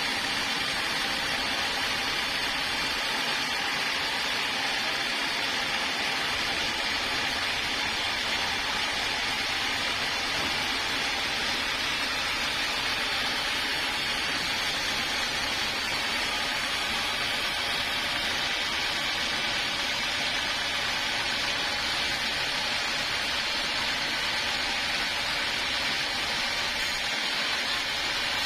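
Sawmill saw running through a large log, a steady, even, hissing machine noise with no breaks.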